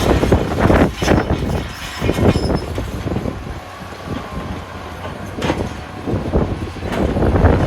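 Wheel loader working rock: its diesel engine running under dense clattering and knocking of rocks. The clatter is heavy at first, eases in the middle and builds again near the end.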